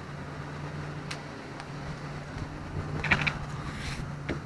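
A vehicle engine running steadily with a low hum, with a few short clicks and rustles of handling over it.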